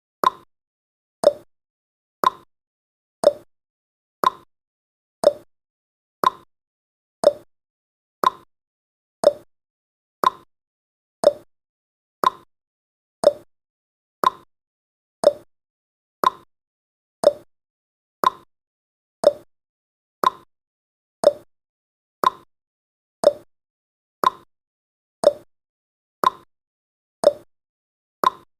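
Ticking sound effect of a countdown timer, one tick each second, alternating between a higher and a lower click like a clock's tick-tock.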